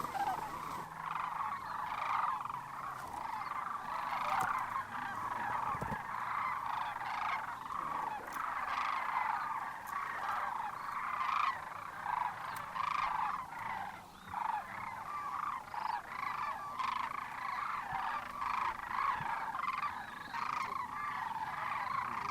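A flock of sandhill cranes calling, a continuous chorus of many overlapping croaking calls.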